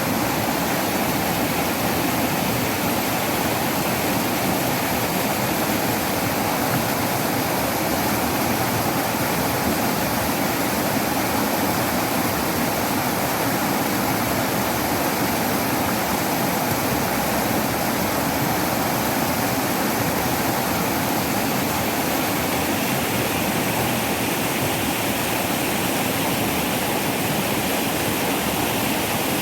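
Waterfall: water falling and rushing steadily, an even, unbroken roar of white water.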